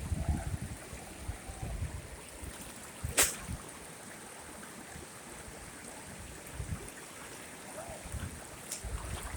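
Waterfall water running as a steady rush of noise, with low rumbling bumps in the first couple of seconds and one sharp click about three seconds in.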